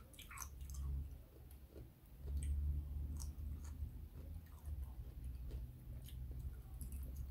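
A person chewing pickles and olives, with a few light clicks.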